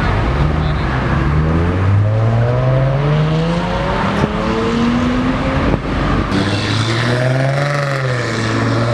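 Car engine accelerating hard, its pitch rising steadily for about four seconds; after a sudden change about six seconds in, another engine note holds loud to the end.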